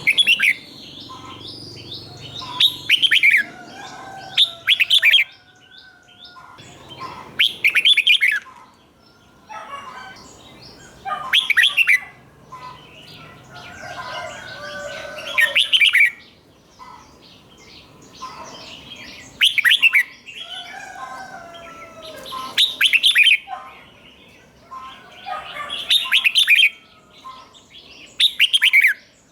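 Red-whiskered bulbul singing loud, quick, warbling song phrases, repeated every three to four seconds and sometimes given twice in a row. This is the doubled phrase that bird keepers play to caged bulbuls for them to copy. Fainter chirping fills the gaps.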